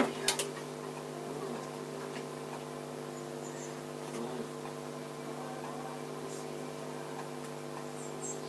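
A steady hum made of several fixed tones, with a couple of sharp clicks just after the start and faint high chirps near the end.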